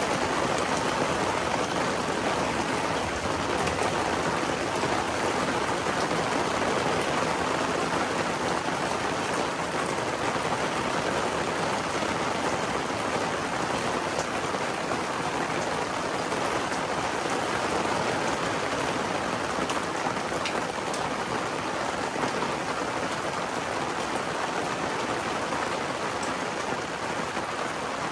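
Steady rain falling, a continuous even hiss with a few faint drop ticks.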